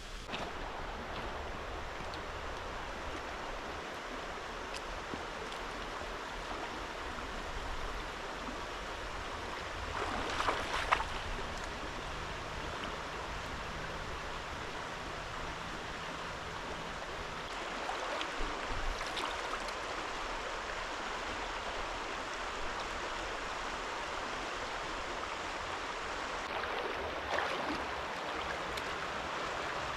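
River water running steadily, a continuous rushing hiss, with a few brief louder noises about ten seconds in and again around eighteen and twenty-seven seconds.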